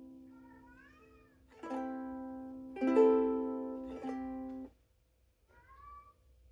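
Ukulele chords strummed three times, the loudest about three seconds in, then muted suddenly. A cat meows twice, once before the strumming and once near the end after the strings are stopped.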